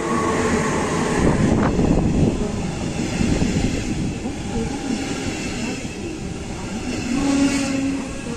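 Electric-hauled regional express with double-deck coaches passing close and braking toward a stop: a loud low rumble of the locomotive and wheels in the first two seconds, then the coaches rolling slower with steady brake and wheel squeal, strongest near the end.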